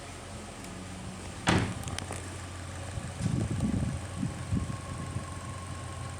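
Holden Cruze engine idling steadily, with one sharp loud knock about one and a half seconds in and uneven low thuds in the second half.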